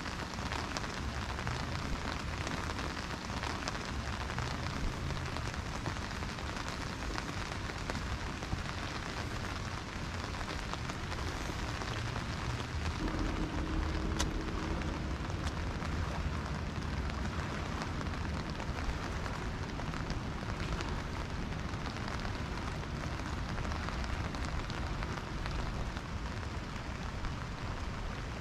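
Steady rain falling, an even continuous hiss of drops on the ground and surroundings.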